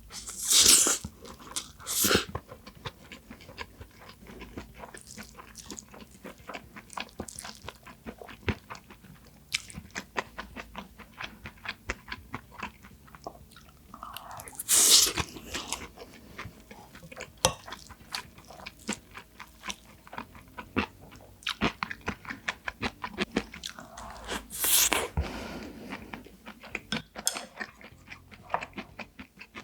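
Close-miked chewing and eating: a steady run of small wet mouth clicks and smacks. Louder bursts of about a second each come near the start, about halfway through, and about five seconds before the end.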